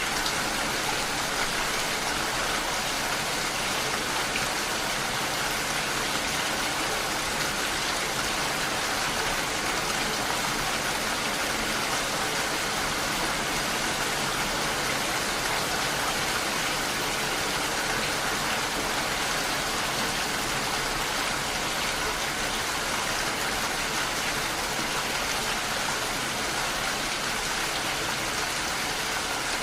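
Steady rain falling on window glass: a dense, even hiss with no single drops standing out.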